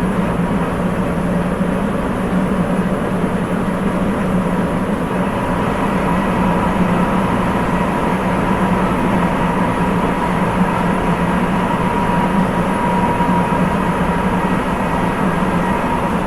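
Sapporo Municipal Subway 8000-series train running between stations, heard from inside the car: a steady rubber-tyred rumble with a thin high tone that holds throughout.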